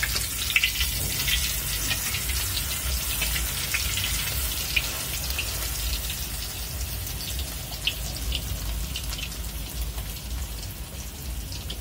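Egg omelette frying in oil in a steel wok: a steady sizzle with scattered crackles and pops, and a metal spatula scraping the pan in the first couple of seconds.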